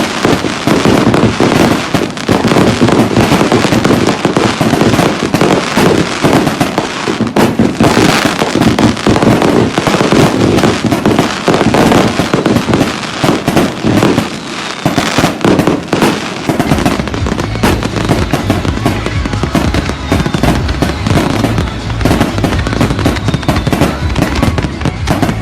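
Many fireworks and firecrackers going off at once, a dense, unbroken barrage of bangs and crackling. A steady low rumble joins in about two-thirds of the way through.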